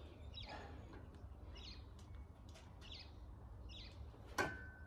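Small birds chirping, short high chirps repeating every half second or so over a low background rumble, with one sharp click about four and a half seconds in.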